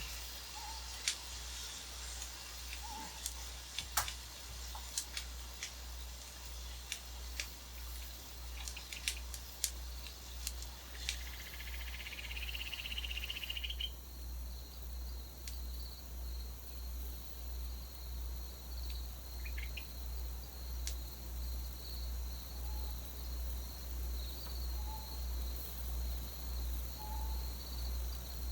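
Night ambience of insects: a high buzzing trill that gives way about halfway through to a steady high insect tone, with an owl giving short soft hoots every couple of seconds. Scattered sharp clicks in the first half, and a low throb repeating a little faster than once a second underneath.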